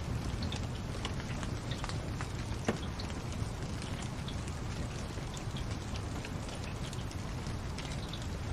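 Wood fire crackling: scattered small pops and snaps over a steady low rumble, with one louder pop a little under three seconds in.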